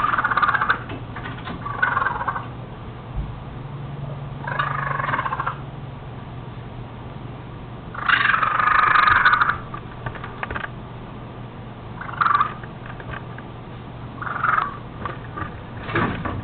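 Animal calls repeating every couple of seconds, each lasting about half a second to a second and a half, with the longest and loudest near the middle, over a steady low hum.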